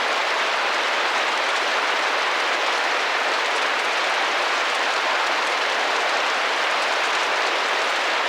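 Rain drumming gently against a glass window: a steady, even hiss with a fine patter of drops.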